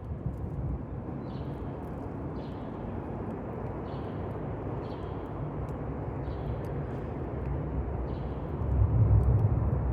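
Campfire burning: scattered small crackles and pops over a steady low rumble that grows louder near the end. A faint short call repeats about once a second.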